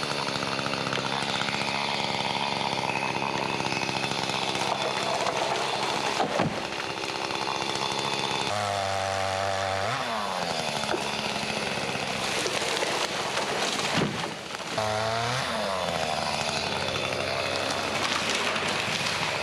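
An engine running steadily under work, with two spells of changing load where its pitch slides down, and a couple of sharp knocks.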